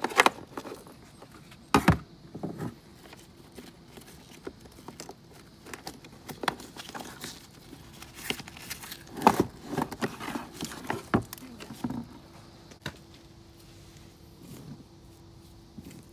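Hands handling tools and parts during scooter battery work: scattered metallic clicks and knocks with rustling between them, the loudest a couple of seconds in and again about nine seconds in.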